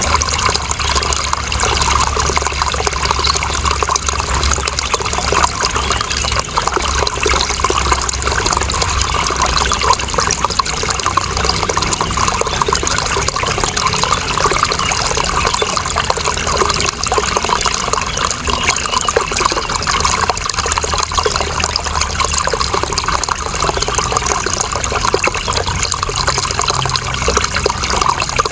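Running water flowing steadily, an even, continuous rush with a low rumble underneath.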